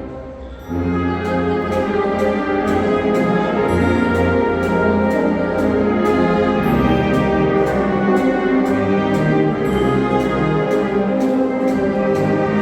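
Wind band of brass and woodwinds playing in full, over a steady percussion beat; the music comes back in strongly just under a second in after a brief dip.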